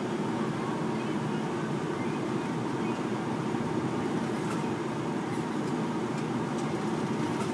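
A truck engine running steadily with an even low drone, with a few faint clicks in the second half.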